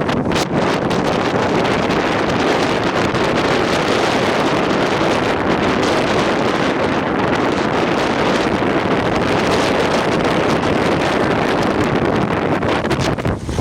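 Strong wind from a microburst windstorm blowing across the microphone: loud, steady wind noise that eases slightly just before the end.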